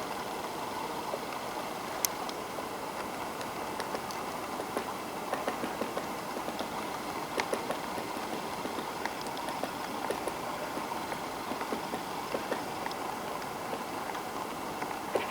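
A woodpecker pecking at a tree as it forages, knocking bits out of the wood in irregular single taps and short clusters rather than a drumming roll, over a steady rushing background noise.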